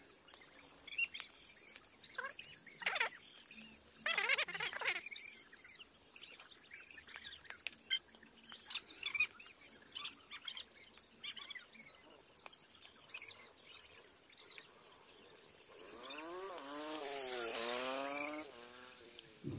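Small birds chirping on and off, with a few brief scrapes. Near the end a louder sound swells for about three seconds and fades away.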